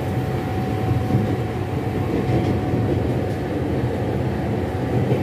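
LHB passenger coach running along the track, heard from inside the coach: a steady rolling rumble with a faint steady whine over it.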